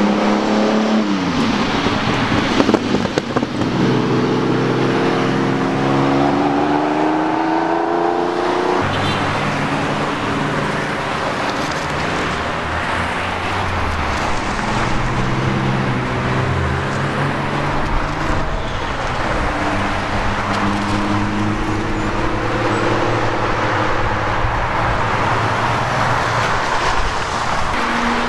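A string of sports cars accelerating past one after another, among them a Lamborghini Countach's V12 and Nissan Z cars, their engine notes rising in pitch through the gears over steady traffic noise. A short burst of sharp cracks comes about 3 seconds in.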